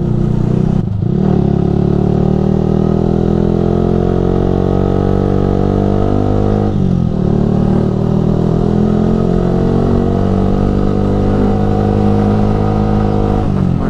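Yamaha R15 v3's 155 cc single-cylinder engine through a Ronin Musashi aftermarket exhaust, heard from the rider's seat while riding. The engine note climbs slowly in pitch, with a brief dip at gear changes about a second in, about seven seconds in and near the end.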